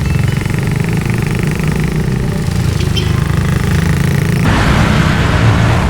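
Motorbike engine running steadily under way. A broad hiss comes in about four and a half seconds in.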